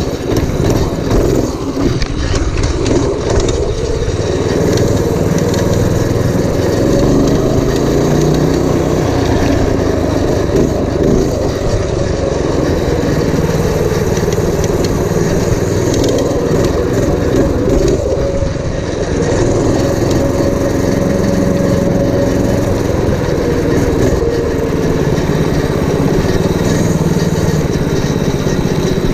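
Predator 212cc single-cylinder four-stroke engine on a minibike running, its pitch rising and falling again and again as the throttle is opened and eased off.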